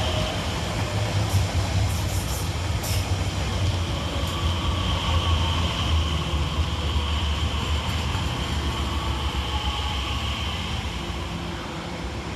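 Class 345 Aventra electric multiple unit passing through the station at speed: a steady rumble of wheels on rail with a high, even whine and a few sharp clicks about two seconds in, fading near the end as the last carriage goes by.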